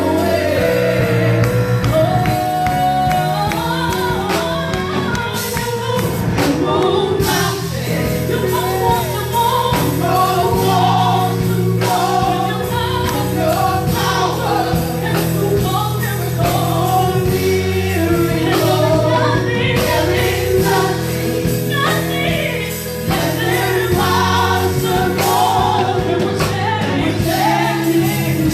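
Live gospel worship music: singers and a choir singing over a band with sustained keyboard chords and bass.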